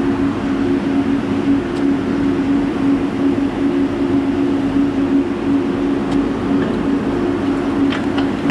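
Spanish high-speed train running: a steady rumble and rush of noise with a constant low hum running through it.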